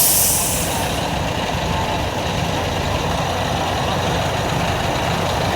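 Kenworth K100 semi truck's diesel engine idling steadily, with a burst of air-brake hiss that dies away about a second in.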